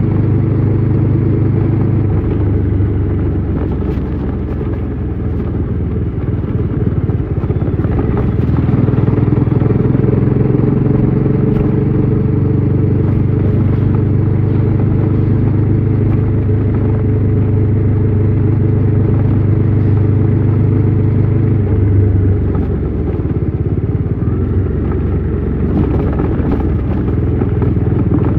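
Bajaj Dominar 400's single-cylinder engine and exhaust running under way, a steady deep note that shifts in engine speed a few times: a dip about two seconds in, a lift at about eight seconds, and another drop about six seconds before the end.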